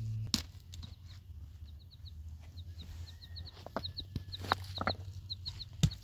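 Birds chirping: short, high chirps in quick twos and threes, repeated throughout, with a few sharp knocks and a faint steady low hum underneath.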